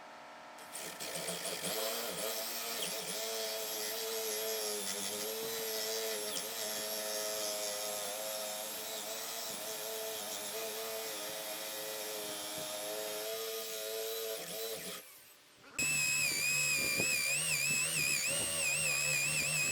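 Electric power tool running steadily for about fourteen seconds, then winding down. About a second later, a louder, higher-pitched power tool starts, its pitch wavering as if under load.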